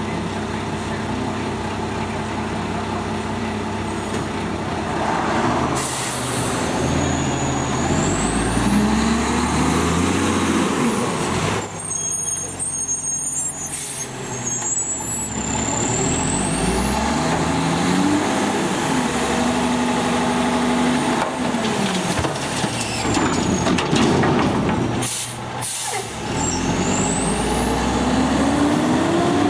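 Garbage truck's diesel engine revving up and falling back several times, with a high whine rising and falling along with it. Its air brakes hiss loudly twice, once around the middle and once near the end.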